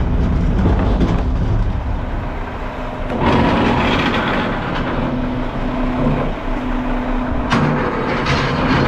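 Front-loader garbage truck's diesel engine running with a heavy low rumble; about three seconds in it grows louder into a steady drone that holds to the end.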